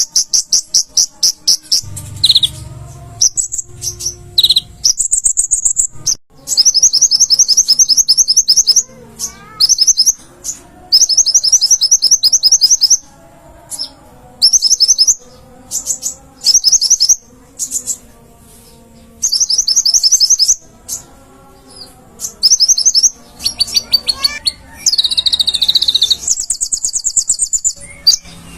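Kolibri ninja (konin) sunbird singing: loud, rapid high-pitched trills of fast repeated chirps, coming in short bursts with brief pauses between, used as a training song for cage birds.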